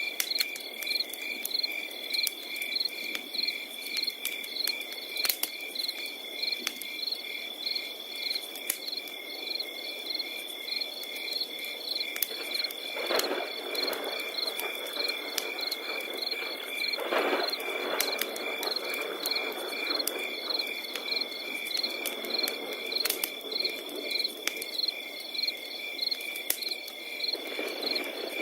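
Crickets chirping in regular pulses, several a second, over a steady high trill, layered with a crackling wood fire: scattered sharp pops and a low rushing hiss that swells up briefly three times.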